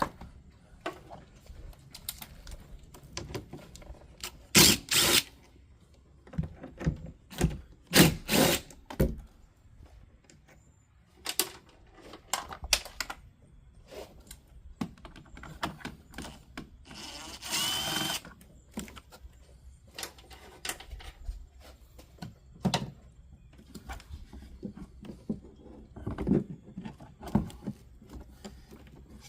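Tool work on a VW Mk4's wiper motor mounting: irregular knocks, clicks and metal clanks of wrench or ratchet and parts being handled as its 10 mm bolts come out, with louder clusters about five and eight seconds in and a brief noisier whir around two-thirds through.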